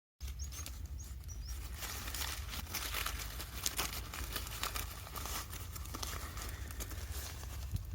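Dense, irregular crackling and rustling, with a few short high chirps in the first second and a half.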